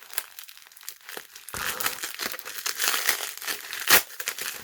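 Packaging wrap being crinkled and pulled open by hand, an irregular run of crackles that thickens about a second and a half in, with one sharp snap near the end.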